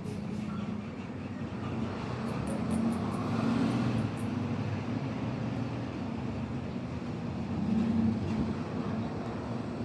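Steady low rumble of a passing vehicle, swelling louder about three seconds in and again near eight seconds.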